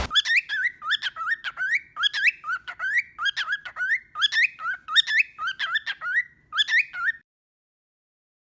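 Cockatiel calling in a rapid run of short rising whistled chirps, about three or four a second, which stops abruptly about seven seconds in.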